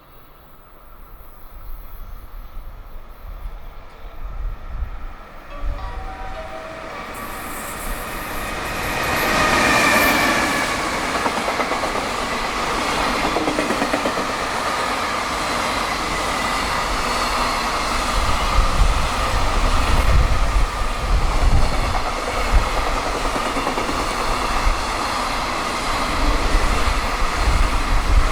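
A JR Freight EF210 electric locomotive hauling a freight train approaches and passes at high speed. The sound builds up, peaks as the locomotive goes by about ten seconds in, then gives way to a long steady run of wagons rolling past with rhythmic wheel clatter.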